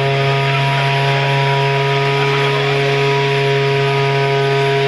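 Electronic drone from a live noise-music set: several steady held tones, the strongest one low, over a constant hiss, loud and unchanging.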